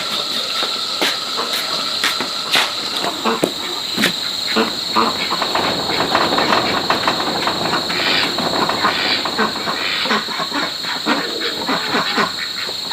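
Insects, crickets or cicadas, humming steadily at a high pitch, with irregular crackling and rustling of leaves and brush throughout.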